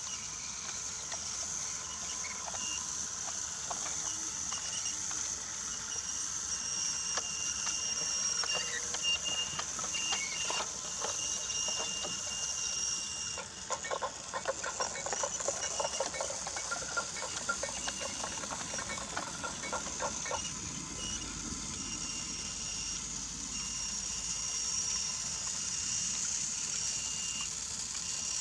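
Battery-powered Brio toy train running on wooden track: a steady high motor whine, with quick clicking and rattling of the cars over the track through the middle of the stretch.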